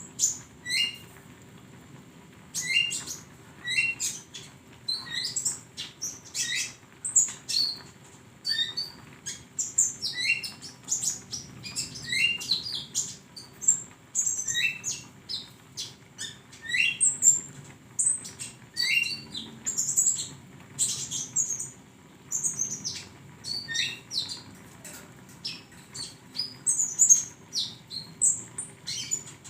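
A konin songbird giving a long series of short, high chirps that sweep quickly upward, about one or two a second, over a faint steady hum.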